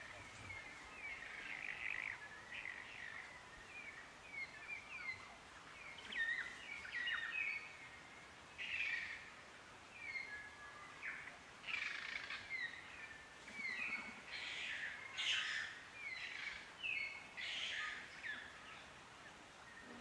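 Native New Zealand forest birds singing and calling: many short whistled notes and quick downward-sliding chirps, several birds overlapping. Louder bursts of song come every few seconds.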